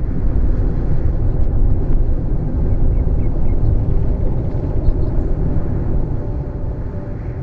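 Steady low rumbling noise that starts abruptly, with a faint sustained musical drone underneath.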